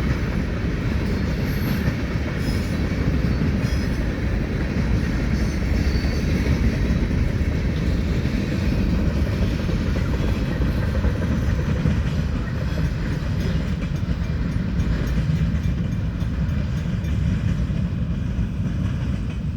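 Freight cars of a heavy Norfolk Southern train rolling past: a steady low rumble of steel wheels on the rails.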